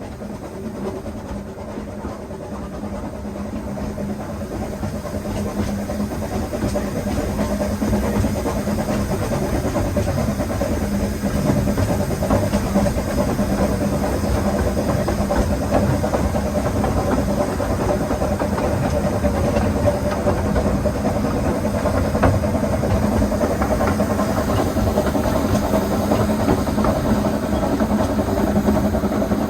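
Hunslet narrow-gauge quarry steam locomotive and its train running, with a steady rumble and faint hiss that grows louder over the first ten seconds or so and then holds steady.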